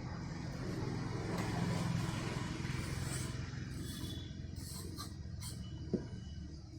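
A low, steady engine or machine rumble that swells and then slowly fades, with a few short scraping sounds near the middle and a single sharp knock near the end.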